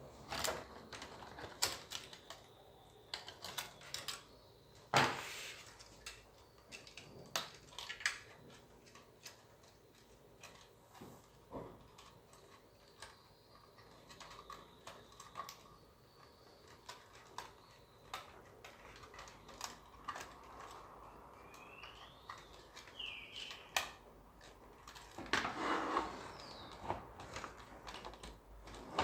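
Irregular light clicks and knocks of tools and small hard parts being handled, spaced unevenly, the loudest about five seconds in. There is a brief squeak about two-thirds of the way through and a short rustle near the end.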